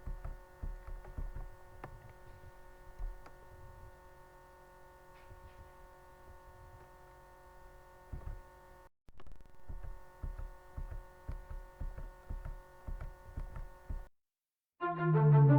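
A steady electrical-sounding hum made of several held tones, with irregular soft low thumps underneath. It cuts out for a moment about nine seconds in and stops shortly before the end.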